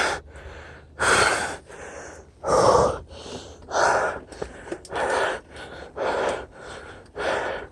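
A cyclist's heavy, hard breathing after a climb, loud puffs of breath about once a second.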